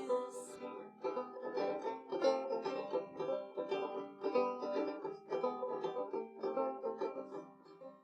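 Instrumental ending of a song on an acoustic plucked string instrument: a run of quick picked notes that fades out near the end.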